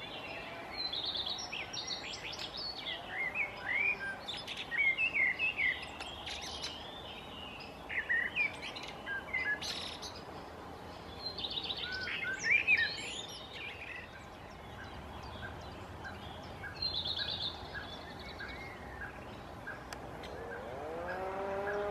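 Small birds chirping and singing in short warbled phrases, with a brief trill later. Near the end, a siren winds up and holds a steady tone.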